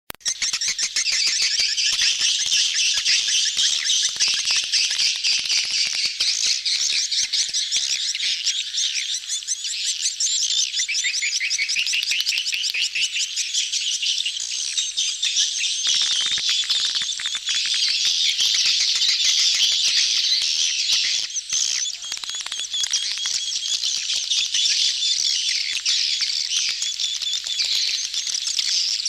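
A dense chorus of many edible-nest swiftlets (walet), continuous rapid high-pitched twittering and chirping with no pauses. These are the crowding, courtship calls of a colony in mating mood, as used to lure swiftlets into a nesting house.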